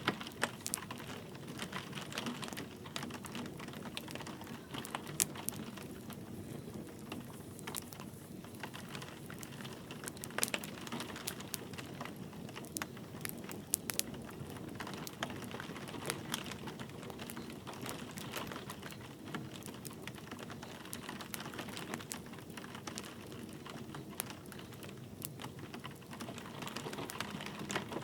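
Wood fire crackling, with frequent sharp pops, over a steady patter of light rain.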